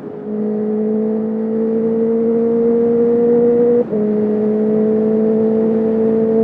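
2021 Honda CB650R's inline-four through a full Akrapovic exhaust with no dB killer, accelerating under load with the note climbing steadily. About four seconds in the sound cuts for an instant as the quickshifter makes a clutchless upshift, and the note picks up at a lower pitch and climbs again.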